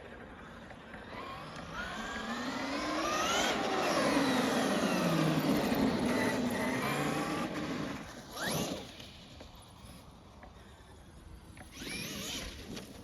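Traxxas X-Maxx 8S electric RC truck driving under throttle: its motor and drivetrain whine rises in pitch as it speeds up over the first few seconds, then falls as it slows. Two shorter bursts of throttle follow, one past halfway and one near the end.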